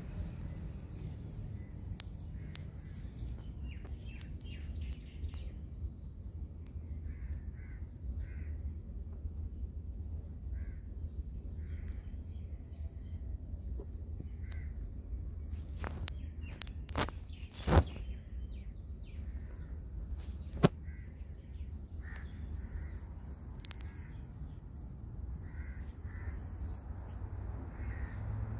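Faint bird calls, some of them crow-like caws, scattered over a steady low rumble. There are a few sharp clicks a little past halfway.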